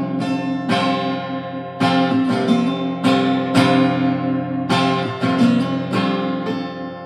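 Acoustic guitar strumming chords in an instrumental break, each strum ringing on, with the sound dying away near the end.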